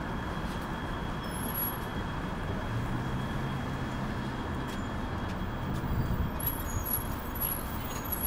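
Steady street traffic noise with the low hum of vehicle engines nearby, swelling a little about six seconds in.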